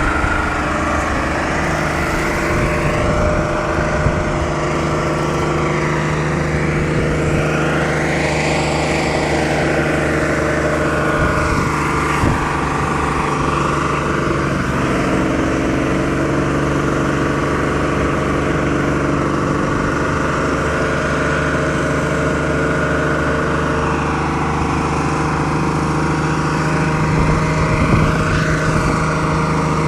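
Diesel truck engine in a runaway, racing on its own out of the driver's control, with its pitch wavering up and down every few seconds.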